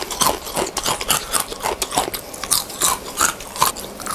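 Close-up crunching and chewing of crispy fried intestine snack (usus crispy), with sharp, irregular crunches a few times a second.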